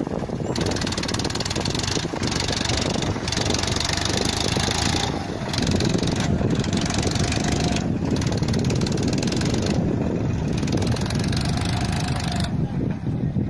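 Swaraj 963 FE tractor's three-cylinder diesel engine running steadily, pulling a heavily loaded trolley.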